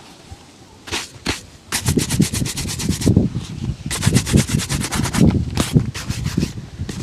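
Shoe brush worked fast over a shoe during a shine: two single strokes, then quick back-and-forth strokes at about eight a second, in runs with short pauses between them.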